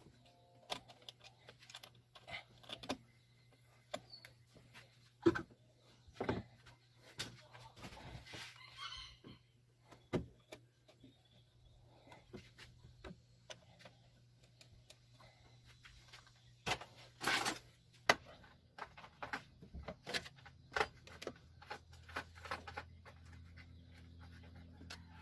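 Scattered light clicks, clinks and knocks of hand tools and metal parts being handled during spark plug work, with a louder cluster of rattling about two-thirds of the way in, over a faint steady low hum.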